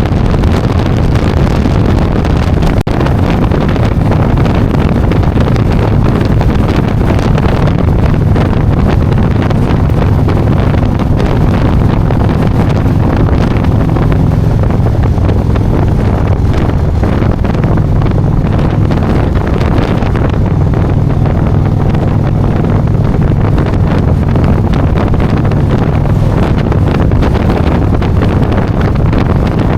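Wind buffeting the microphone of a motorcycle riding at speed, loud and steady, with the engine's low drone underneath.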